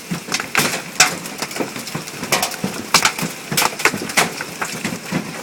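Hailstones pelting down, striking hard surfaces in a dense, irregular stream of sharp cracks and clacks over a steady hiss. The stones are large, being measured against a quarter.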